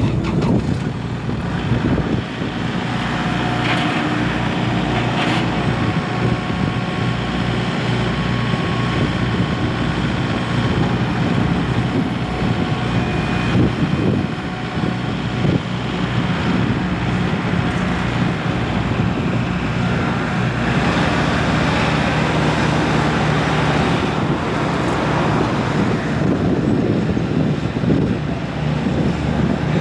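Kubota L4701 tractor's four-cylinder diesel engine running steadily, its sound getting broader and rougher for several seconds about twenty seconds in.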